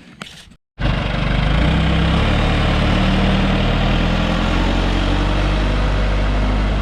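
JCB backhoe's diesel engine running steadily and loud. It comes in abruptly just under a second in, after a moment of silence.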